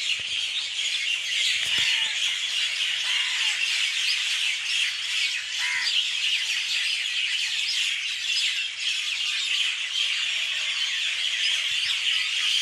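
A dense, continuous chorus of many small birds calling over one another, with a few lower single calls standing out now and then.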